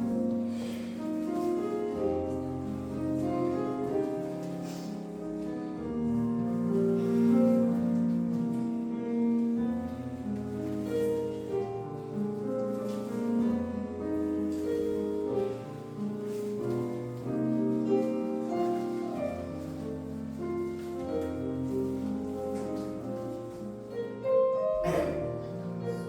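Classical piano music accompanying a ballet exercise, a flowing melody of held notes at an even level.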